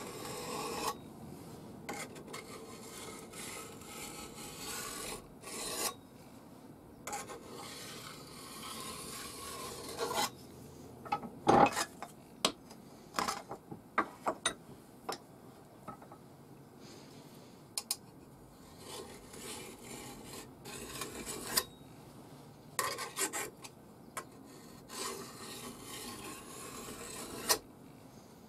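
A file drawn in short, intermittent strokes along the steel rails of a chainsaw guide bar, taking the burr off the rail edges. Sharp metal clicks and knocks come in between, the loudest about eleven and a half seconds in.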